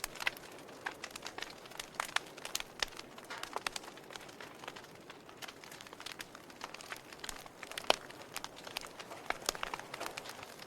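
Wood fire crackling in a fireplace: irregular sharp pops and snaps from the burning logs over a soft steady hiss, with one louder pop about eight seconds in.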